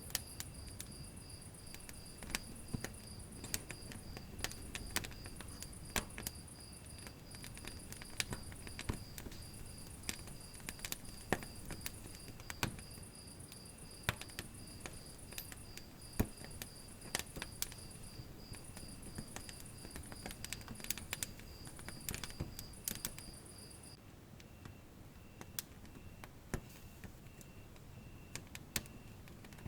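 Wood fire crackling and popping in a fireplace: irregular sharp snaps over a low, steady rumble of burning. A high-pitched, evenly pulsing chirp runs alongside and stops about 24 seconds in, leaving a fainter, lower pulsing chirp.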